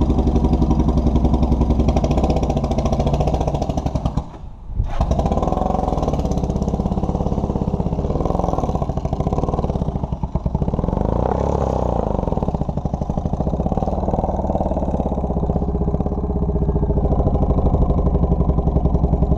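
Motorcycle engine running under way, its pitch rising and falling as the speed changes. The sound drops out for about half a second about four seconds in.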